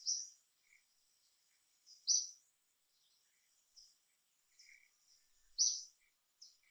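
A bird chirping: loud short high chirps about a second or two apart, the loudest about two seconds in and again near the end, with fainter chirps between, over a faint steady high tone.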